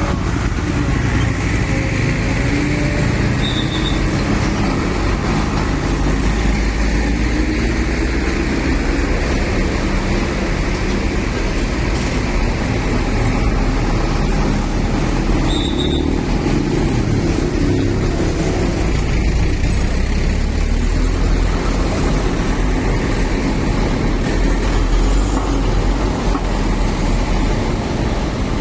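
Sugarcane transport trucks' diesel engines running as the trucks move along in a steady low rumble. A brief high chirp sounds twice.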